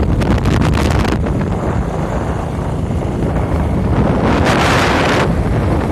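Wind buffeting the microphone: a steady low rumble with hiss on top, rising into a louder gust a little over four seconds in.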